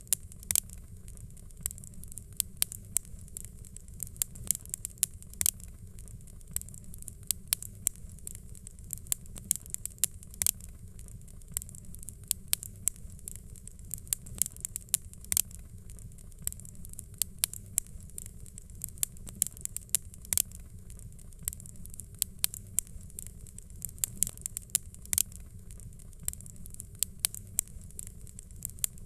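Fireplace fire crackling: irregular sharp pops and snaps, at times several a second, over a steady low rumble and a faint hiss.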